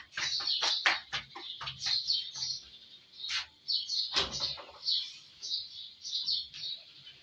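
Small birds chirping continuously: many short, high chirps, coming quickly in the first two seconds, with one thump about four seconds in.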